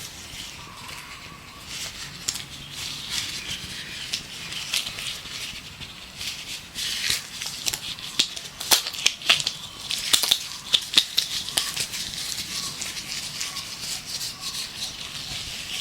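Gloves being rubbed and handled, a steady crinkling rustle broken by sharp snapping clicks that crowd together and grow loudest in the middle. Faint birdsong runs underneath.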